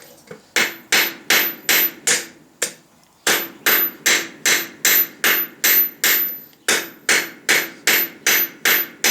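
Hand hammer blows on a small piece of steel on a stake anvil, about three strikes a second, each sharp and briefly ringing, with a short pause about three seconds in before the rhythm resumes.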